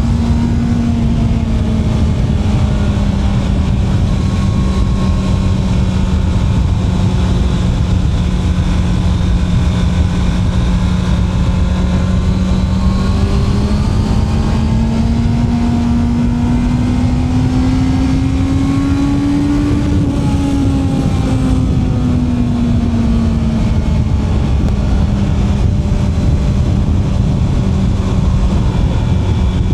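Honda CB650R's inline-four engine running at a steady cruise, its pitch climbing slowly about halfway through and easing back down a few seconds later, over a steady low rush of wind and road noise.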